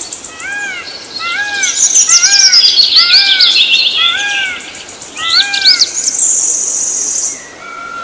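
Songbirds singing: one repeats a short, arched note about twice a second, while another gives a fast trill that falls in pitch, and a high buzzy trill comes in about six seconds in.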